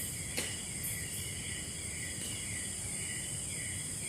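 A steady chorus of tropical forest insects, with a short falling chirp repeating about twice a second over the high, even drone. A single sharp click about half a second in.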